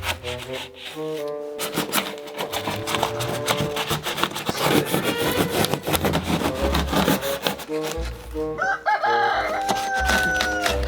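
Rapid rasping strokes of a blade cutting into wood, over background music, with a rooster crowing once for about two seconds near the end.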